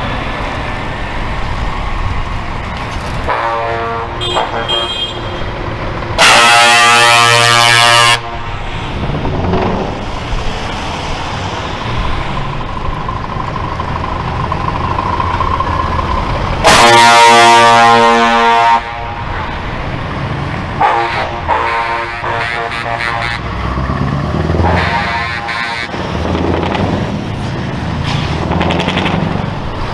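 Truck air horns blowing as heavy trucks drive past. There are two loud blasts of about two seconds each, about a third of the way in and again past the middle, and several shorter, quieter horn sounds in between. Under the horns the truck engines and traffic run steadily.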